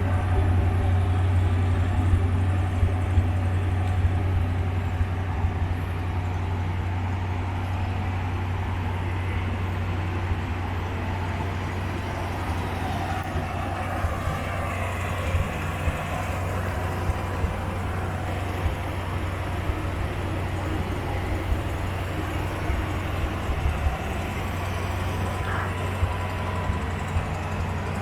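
1955 Ford Thunderbird's 292 Y-block V8 idling steadily.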